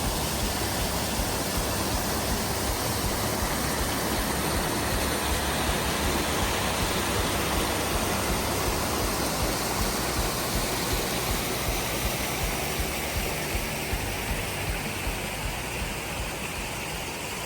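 Waterfall on a mountain river rushing steadily, a constant wash of falling water that eases slightly near the end.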